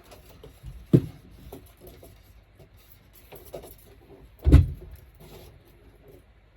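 Two heavy thumps, one about a second in and a louder one about four and a half seconds in, with lighter knocks and handling noises between them, as objects are moved and set down during the work.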